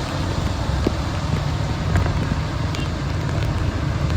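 Steady hiss of heavy rain with a low rumble underneath and a few faint clicks.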